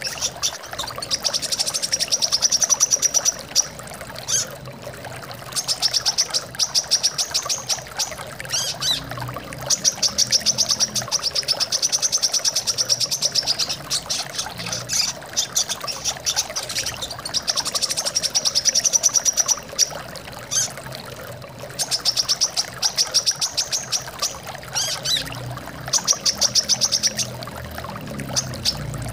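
Brown-throated sunbird singing: rapid high trilled phrases of a second or two, repeated again and again, over a steady sound of running water.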